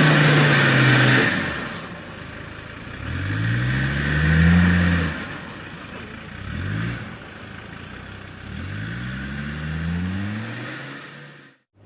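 Motor vehicle engine running, then revving up several times, the pitch rising with each rev: a long rev about three seconds in, a short one near seven seconds and another around nine seconds. It cuts off abruptly near the end.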